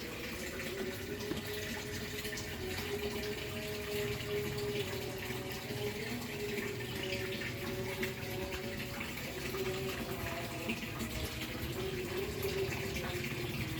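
Steady running water with a faint, wavering hum underneath.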